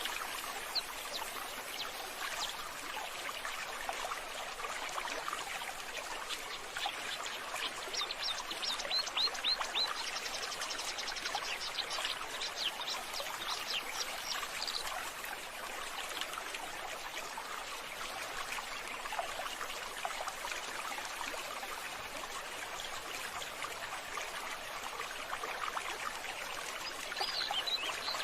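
Steady running water, with small birds chirping over it, most thickly from about eight to fifteen seconds in.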